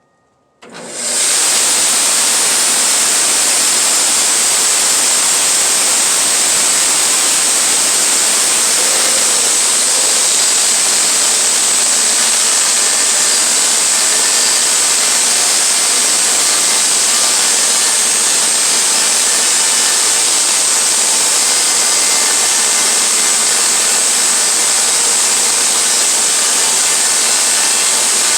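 Sawmill running and cutting a pine log: the sound starts abruptly about a second in, then holds a loud, steady, hissing noise.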